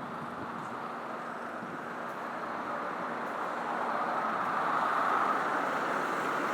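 Road traffic noise: a steady wash of car engine and tyre sound that swells in the second half as a vehicle draws close.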